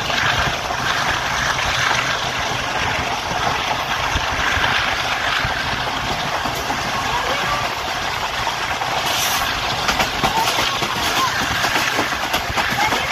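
Passenger express train running at speed, heard from on board: a steady rush and rumble of wheels on rails, with a run of sharp clicks and knocks in the last few seconds.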